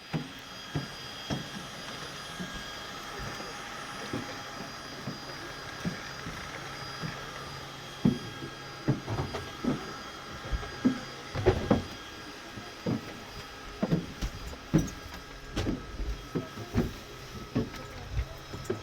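A steady aircraft whine with several high tones. Over it come irregular thuds and knocks, sparse at first and coming thick and fast from about eight seconds in.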